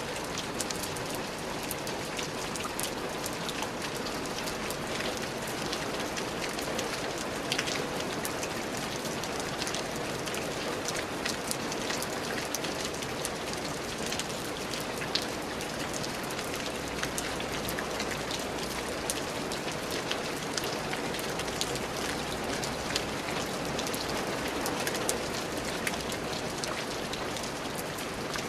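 Steady rain falling on a surface, a constant hiss with many individual drops pattering sharply over it.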